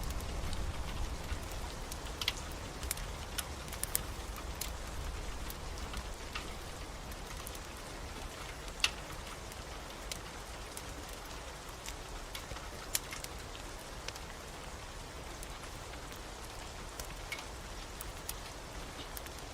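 Steady rain falling, with sparse, irregular sharp crackles of a wood fire.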